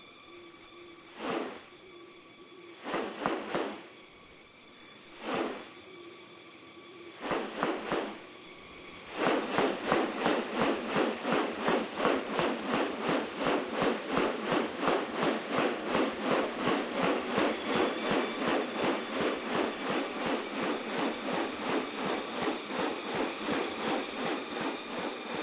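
Rainforest insects keep up a steady high hum. Over it come a few short bursts, then from about nine seconds in a fast, even series of harsh pulses, about three a second, whose source cannot be made out.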